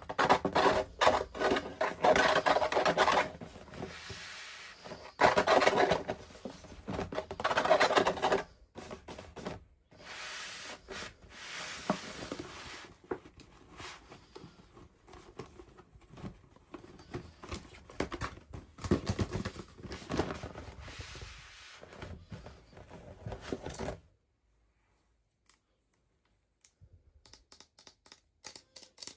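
Toy packaging being opened by hand: crinkling, rustling and scraping with many small clicks and snips, in uneven spells. It stops about 24 seconds in, leaving only a few faint ticks.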